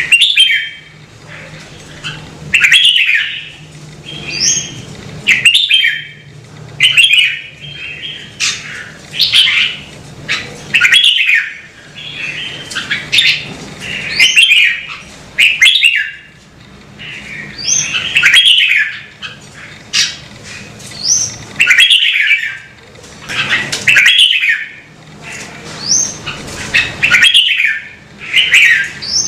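Red-whiskered bulbul singing: short, loud warbled phrases repeated every second or two, a few of them topped by a brief high rising note.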